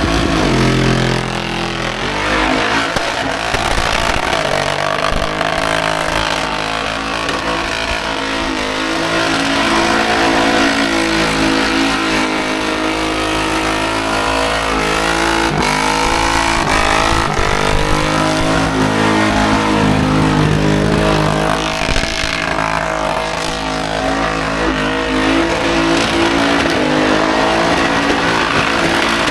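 Car engine revving hard during a burnout, its revs rising and falling several times as the throttle is worked, over the noise of spinning tyres.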